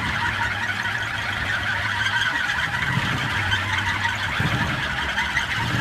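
A large wooden kolecer wind propeller, about one and a half metres across, spinning in the wind with a steady low droning hum and a rushing hiss above it.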